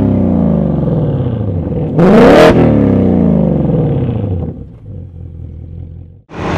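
Naturally aspirated Coyote 5.0-litre V8 of a Ford Mustang Dark Horse on a chassis dyno, engine speed falling. About two seconds in there is a sharp rev, then it winds down again and fades to a low level about four and a half seconds in.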